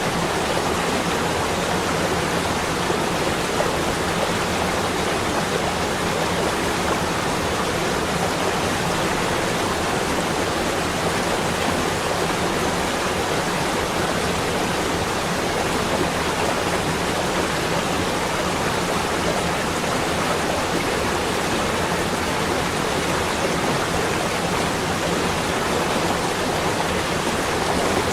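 A steady, even rushing noise that never changes in level, with no separate drops, gusts or clicks.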